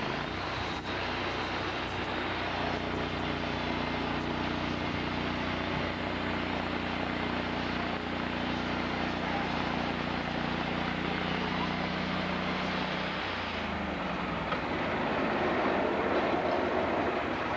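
An engine running at a steady pitch over a constant mechanical din, its tone dropping away about thirteen seconds in.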